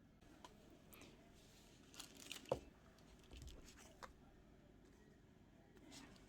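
Faint rustling and light taps of paper and card being handled, with a handful of small clicks, the sharpest about two and a half seconds in; otherwise near silence.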